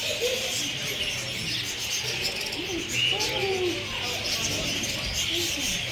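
A flock of birds chirping and chattering all at once in a dense, continuous mass of short calls, with a few lower calls rising and falling among them.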